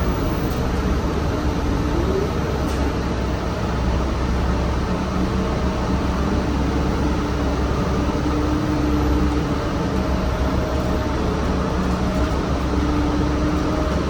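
City bus running, heard from inside: a steady engine and road rumble with a faint drivetrain whine that rises in pitch about two seconds in and again near the end, as the bus picks up speed.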